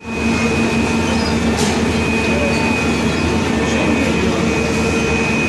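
A steady mechanical hum with several held tones, like a large engine or machine running continuously, with a brief hiss about one and a half seconds in.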